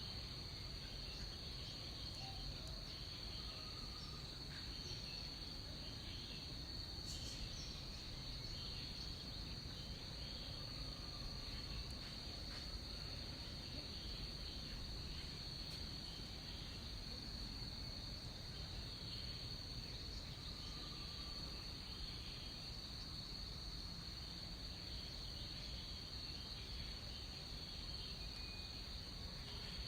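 Rainforest insect chorus: one steady high-pitched trill with no break, over a low, even background hiss. A few faint short calls come and go underneath.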